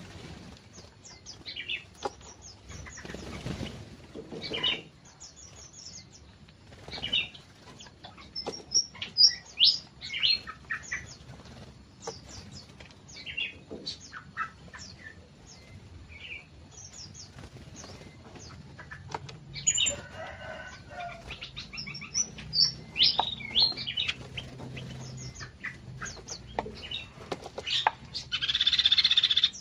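Small aviary songbirds, cucak mini and cucak ranting, chirping and calling in short, high, sliding notes, with fluttering wingbeats. Near the end comes a louder rushing noise lasting about a second and a half.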